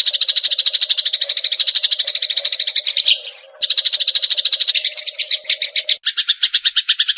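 Sparrows giving fighting calls: a fast, unbroken chattering train of chirps, many a second, with a brief break a little past three seconds and a change in the chirp pattern about six seconds in.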